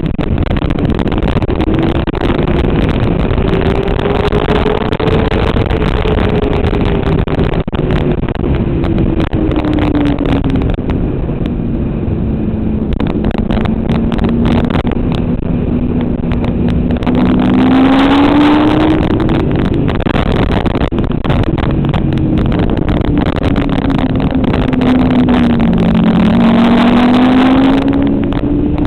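Motorcycle engine on a race track, its pitch rising and falling again and again as it speeds up and slows down, over a constant heavy rush of wind and road noise. The engine note climbs over the first few seconds, sinks to a low steady drone about halfway through, then rises sharply and loudest twice, about two-thirds of the way in and near the end.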